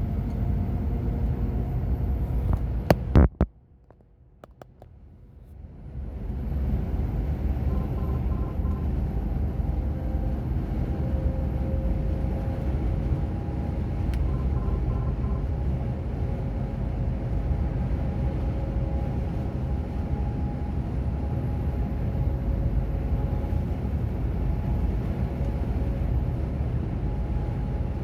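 Container truck engine running with road noise, a steady low drone with faint engine tones. About three seconds in there are two sharp clicks, then the sound drops away for a couple of seconds before the drone returns.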